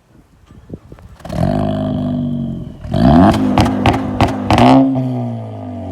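Turbocharged four-cylinder car exhaust with the muffler and resonator deleted, coming up loudly about a second in and then revved in several quick blips with sharp cracks, falling back toward idle near the end.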